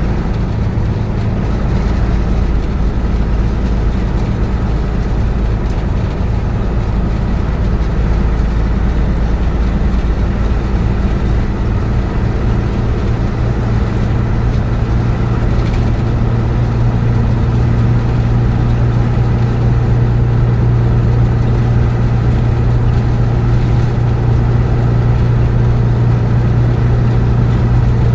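Bus engine and road noise heard from inside the moving bus: a steady low drone, with a low hum growing stronger about halfway through.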